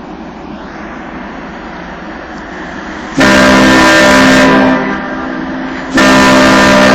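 Car ferry's ship horn sounding two long blasts, the first about three seconds in lasting about a second and a half, the second starting near the end, each loud enough to overload the microphone: the ferry's departure signal. Before the blasts, a steady background rumble.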